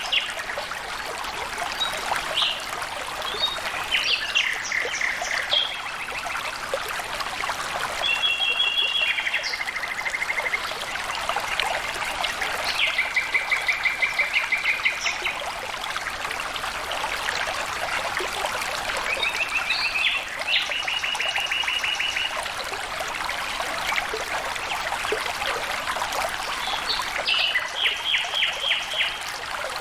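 Steady flowing, trickling water, with a bird repeatedly calling over it: rapid series of short, evenly spaced chirps, each series lasting one to two seconds, coming about six times.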